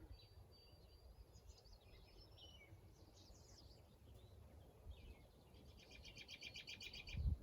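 Faint birdsong: a thin, high, slightly rising whistle in the first couple of seconds, scattered chirps, then a fast trill of repeated high notes near the end.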